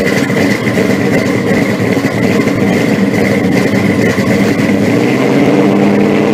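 A car engine running loudly at a steady idle, with a steady high whine over it.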